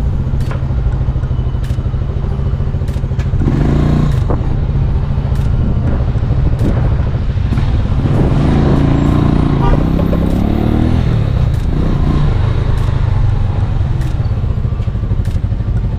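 Motorcycle engine running, with a short rise in revs about three and a half seconds in and a longer climb and fall in pitch between about eight and eleven seconds.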